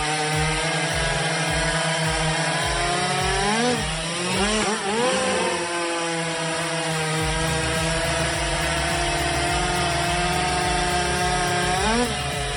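Two-stroke chainsaw running at high speed. Its pitch dips and comes back up about four seconds in and again near the end.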